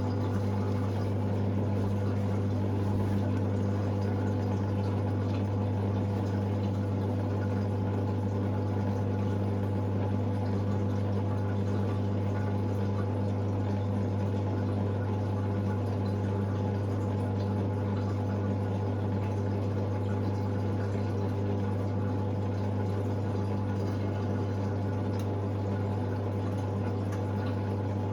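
Hoover Sportswear 1300 washing machine's drain pump running with a steady low hum as it pumps out water.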